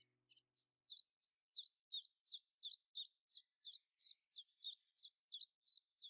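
A songbird singing a long, even run of short high notes, about three a second, each note sliding down in pitch.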